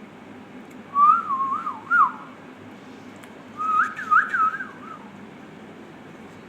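Ringneck parakeet whistling two short warbling phrases, the pitch wavering up and down, with a pause between them.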